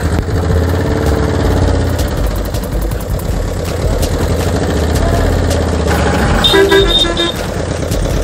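Truck engine running steadily, with a quick run of short horn beeps about six and a half seconds in.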